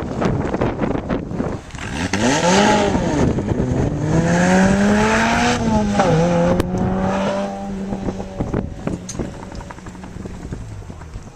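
Sports car engine running hard: its pitch rises and falls about two seconds in, climbs again, drops suddenly near six seconds, then holds and fades away. Wind buffets the microphone.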